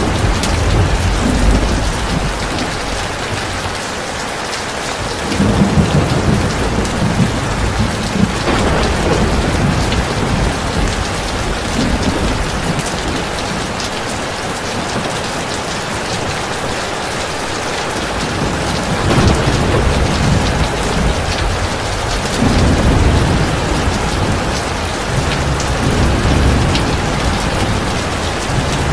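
Heavy rain pouring steadily, with low rolls of thunder swelling up and fading several times.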